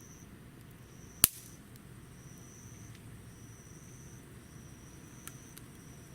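Burning wood in a homemade wood stove giving one sharp, loud pop about a second in and a fainter crack near the end. Insects chirp in repeated high trills throughout.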